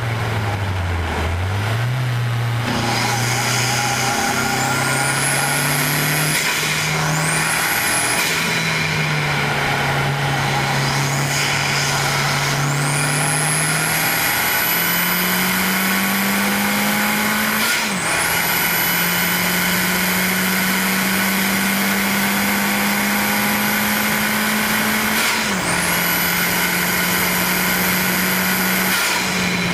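2001 Audi TT's 1.8-litre turbocharged four-cylinder at full throttle through a 3-inch catless turbo-back exhaust, with a high turbo whistle that climbs as the turbo spools. The engine note falls in the first couple of seconds as the car slows, then rises through long pulls. Twice near the end the whistle cuts off at an upshift as the diverter valve releases boost.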